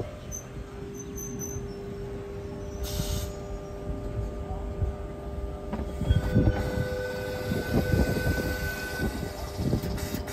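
Sydney Trains Waratah double-deck electric train pulling into the platform and slowing to a stop, with a steady whine and a low rumble of wheels on track. About six seconds in, thin high squeals from the brakes and wheels join in for a few seconds as it halts.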